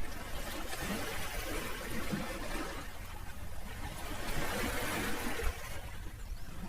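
Sea waves washing ashore, a steady rushing that swells and ebbs twice.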